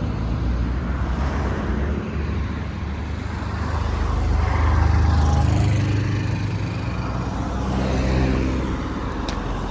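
Road traffic close by: a motor vehicle's engine running past over steady road noise, swelling to its loudest about halfway through and then easing off.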